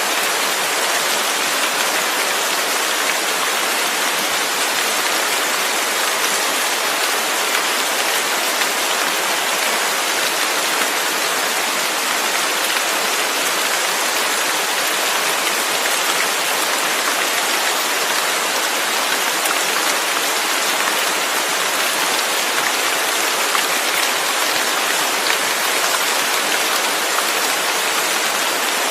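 Steady heavy rain, a constant hiss of many drops falling on a surface, with no pauses or changes.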